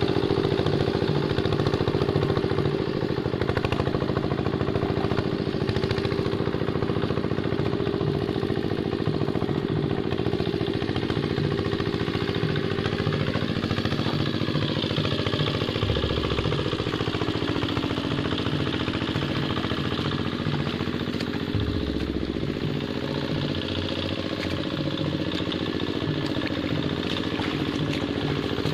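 Quick Capung Metal hand tractor engine running steadily while working a paddy field, with some rattle. Its pitch dips and recovers briefly about halfway through and again a few seconds later, as the load on it changes.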